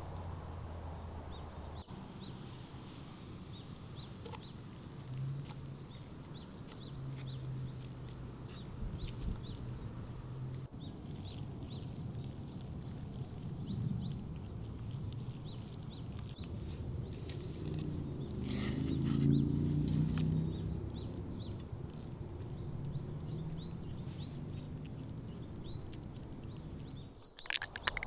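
Outdoor ambience with small birds chirping repeatedly over a steady low hum; a louder pitched sound rises briefly about two-thirds of the way through.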